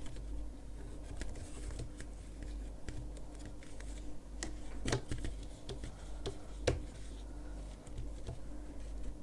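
Light clicking and scratching of a crochet hook and yarn being worked through the holes of a wooden frame, over a steady low hum. Two sharper clicks come about five and seven seconds in.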